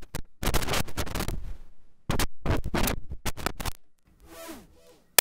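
Digital audio glitching from a malfunctioning audio interface: choppy stretches of crackling noise broken by sharp clicks and sudden dropouts, with a single loud click near the end. The uploader puts it down to an old driver clashing with a newly installed Tascam audio interface.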